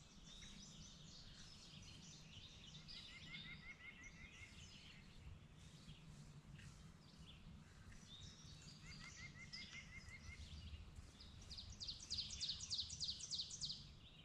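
Faint woodland birdsong: several small birds singing, with two runs of short, evenly repeated notes and a fast, high trill that repeats near the end, over a steady low background hum.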